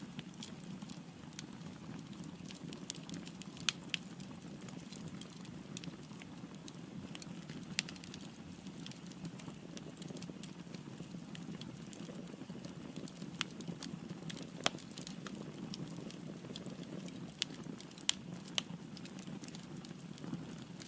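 Firewood burning in a fireplace: a steady low rush of flame with frequent small crackles and a few sharper, louder pops.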